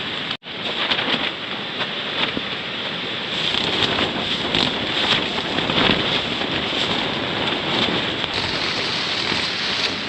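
Heavy rain falling, a dense steady hiss, broken by a brief cut-out about half a second in.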